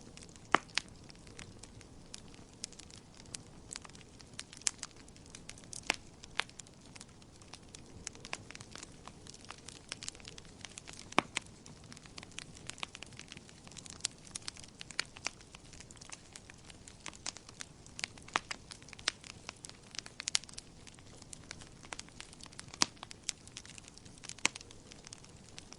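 Wood fire crackling in a fireplace: a steady low hiss with frequent sharp, irregular pops and snaps.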